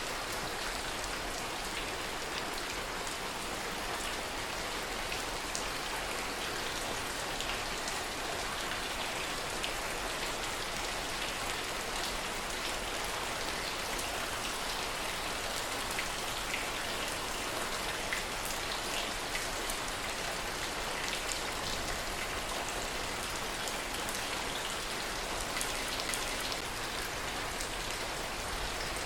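Steady rain falling, an even hiss of rain with many separate drop hits heard through it.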